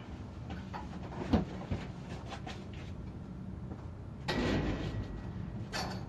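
Handling noises: a couple of sharp knocks about a second in, then a short rustling scrape a little past four seconds and another near the end, over a low steady background rumble.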